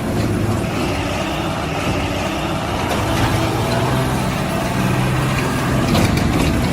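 Engine of a heavy vehicle such as a tractor or truck running steadily with a low hum.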